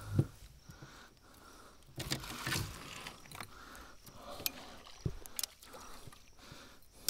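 Scattered handling noises in a small boat: a thump at the start, a brief rustle about two seconds in, then a few sharp clicks and light knocks.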